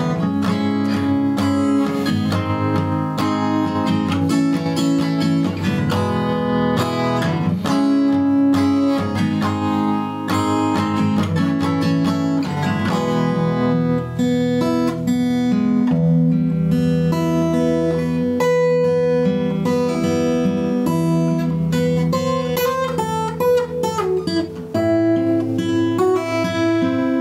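Guitar played continuously, strummed chords and picked notes, recorded through a Shure MV88+ microphone on a phone for a sound test.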